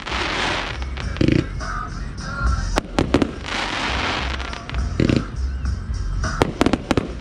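Aerial fireworks: sharp launch and burst bangs, a pair near the middle and a quick cluster near the end, with a dense crackling hiss lasting about a second after the gold glittering bursts break.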